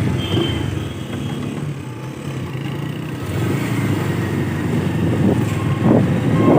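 Motorcycle engine running, growing louder through the stretch.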